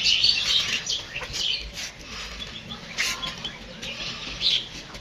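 Birds chirping in short, scattered bursts of high calls, loudest in the first second.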